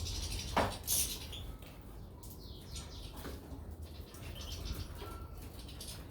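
Caged goldfinches and canaries fluttering their wings and giving short, scattered chirps, with a sharp click about half a second in.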